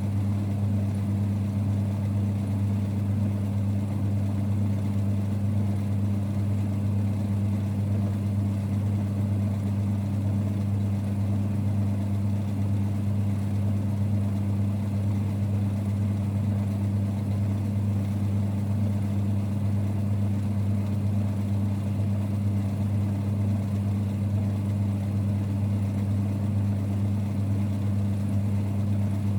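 1946 Boxford lathe running with a steady low hum and rumble that does not change.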